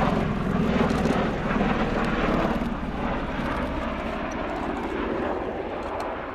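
Bell-Boeing CV-22B Osprey tiltrotor flying past, its two Rolls-Royce AE1107C turboshafts and proprotors making a loud, rough drone that fades from about halfway through as the aircraft moves away.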